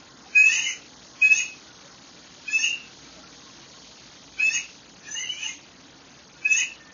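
Bird calls: six short, loud call notes spaced about a second apart, over a faint steady background hiss.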